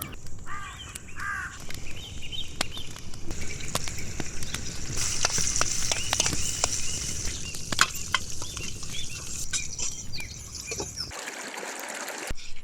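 Campfire wood crackling with frequent sharp pops over a steady high hiss, and a bird chirping briefly near the start.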